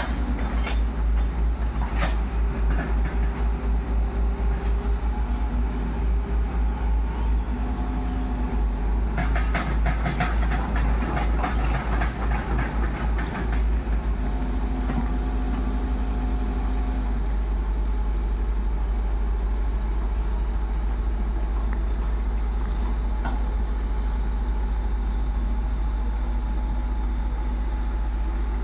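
Diesel engines of a backhoe loader and tractors running while mud is loaded, with a burst of rattling clatter around ten seconds in. The engine sound pulses for the first half, then runs steady.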